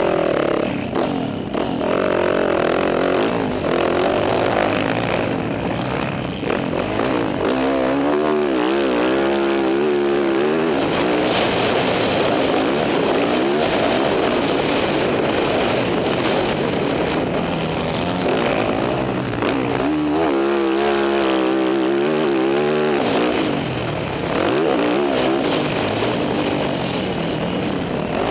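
Dirt bike engine riding hard, its revs rising and falling over and over as the throttle is worked, most clearly about eight seconds in and again around twenty seconds in.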